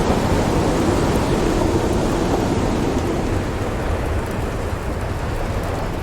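Storm ambience: a steady low rumbling rush of wind and thunder that slowly eases off, with a few faint crackles from a wood fire.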